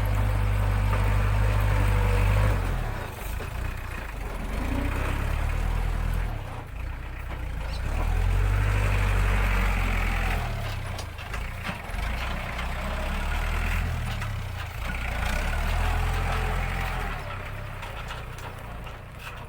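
ISEKI NT554 tractor's diesel engine running under load while ploughing rough, rutted paddy ground. Its low drone swells and eases every few seconds, with scattered knocks and rattles.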